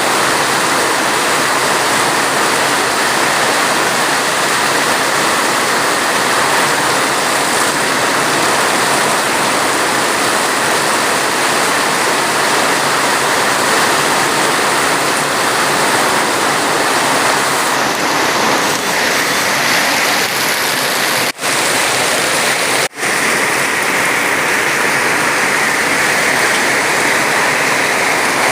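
Steady heavy rain, a dense even hiss of water, with two very brief dropouts a little after two-thirds of the way through.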